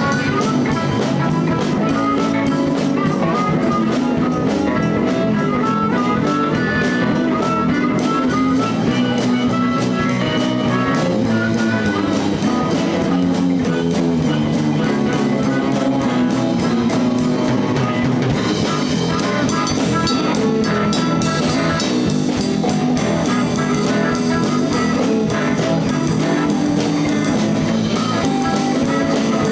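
Live blues band playing an instrumental stretch with no singing: electric guitar over bass and a drum kit.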